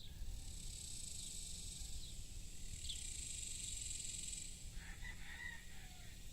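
A rooster crows once, a little under five seconds in, lasting about a second and a half. Under it run a steady high-pitched hiss, a few short bird chirps and a low rumble.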